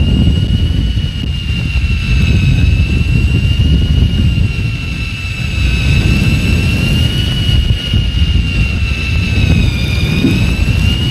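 Electric fishing reel winding line in, a steady high whine that wavers slightly in pitch as the cuttlefish is brought up the last metres. Heavy low rumble of wind and boat noise underneath.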